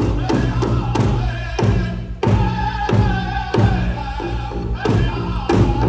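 Powwow drum and singers: a drum struck in a steady beat, about three beats a second, with a group singing over it.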